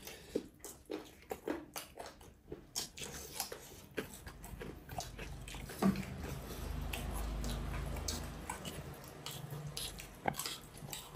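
Chewing and biting sounds of someone eating a meal of rice and curry, with many small, quiet mouth clicks and smacks scattered throughout.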